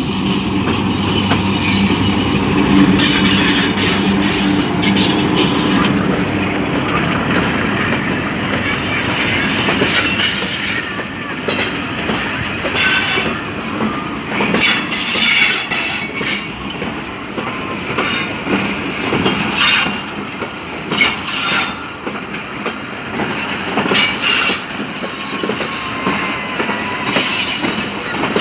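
A diesel-electric locomotive passes close by, its engine drone strong for the first several seconds. Then the passenger coaches roll past with irregular clacks of the wheels over the rail joints.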